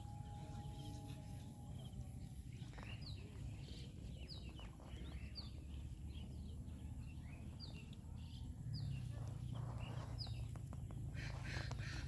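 A bird calling repeatedly, short high chirps that drop in pitch, about one a second, over a steady low rumble.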